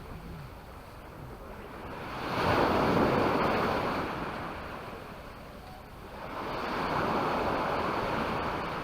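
Small sea waves breaking and washing up a sandy beach, two surges about four seconds apart, each rising and falling away again.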